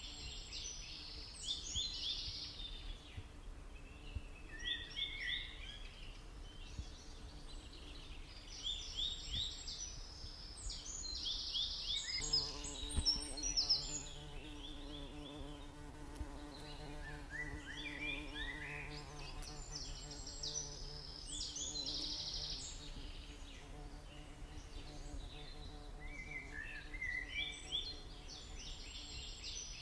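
A songbird singing in repeated phrases of quick high chirps every few seconds, over the steady buzzing hum of stingless bees. The buzz grows louder for about twelve seconds in the middle.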